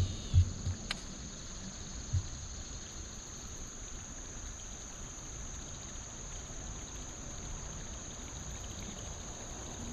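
Steady high-pitched drone of insects over a faint wash of water, with a few low thumps in the first second and one more about two seconds in.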